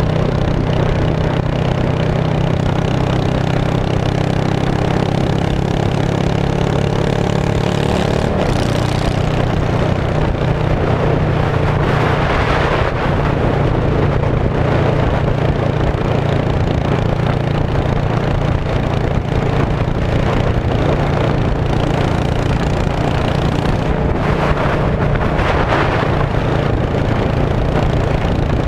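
2002 Yamaha V-Star 650's air-cooled V-twin running through straight pipes at a steady idle, loud and even; its note shifts slightly about eight seconds in.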